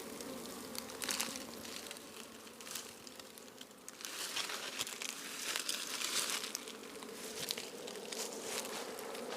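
Honeybees buzzing faintly and steadily around a colony being smoked out of its nest, with irregular rustling and crackling noises coming and going, strongest about a second in and again from about four to six seconds in.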